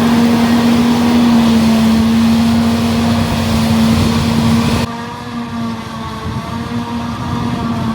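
Heavy diesel farm machinery running steadily under load, with a strong steady whine over the engine noise. About five seconds in the sound changes abruptly, becoming quieter and duller while the same whine continues.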